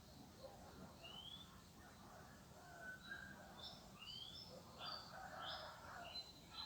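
Faint calls of several wild songbirds: a short rising whistle repeated every few seconds, with a busy run of quick high chirps in the second half.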